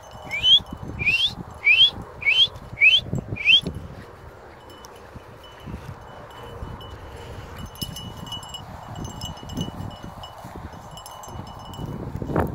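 A bird whistles a quick run of about seven sharply rising notes in the first few seconds, over rustling and footsteps through dry brush. Faint high tinkling follows in the second half.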